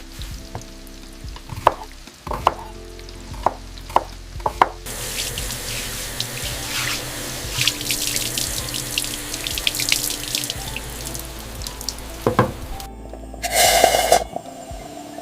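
A few sharp knocks of kitchen things being handled, then water running from a tap into a sink for about eight seconds, splashing, with a short louder gush near the end. Soft background music plays underneath.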